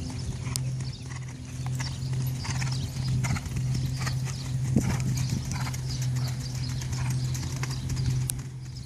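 Paso Fino horse's hooves clip-clopping on the ground, a run of quick hoofbeats, over a steady low hum.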